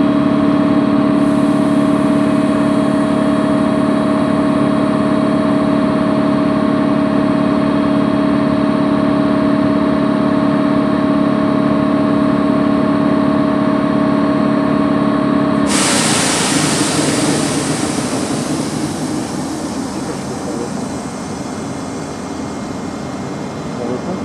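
Electric train humming steadily with several fixed tones. About two-thirds of the way through, the hum cuts off suddenly and a rushing noise takes over and slowly fades.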